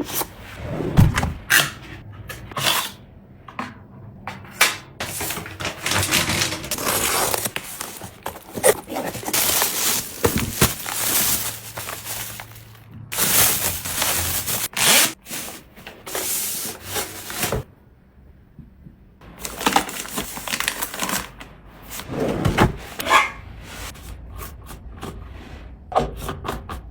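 Restocking sounds of household items being handled: repeated knocks and clicks as things are set down, with stretches of rubbing, scraping and rustling. There is a brief lull about two-thirds of the way through.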